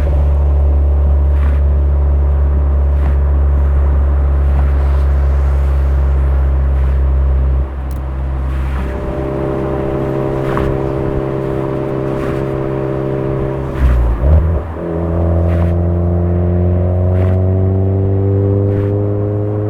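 Suzuki Swift Sport ZC33S's 1.4-litre turbo four-cylinder heard through a Fujitsubo aftermarket exhaust, cruising with a steady note that drops and softens about eight seconds in as the throttle eases. After a short break around fourteen seconds in, it pulls again with the exhaust note rising steadily.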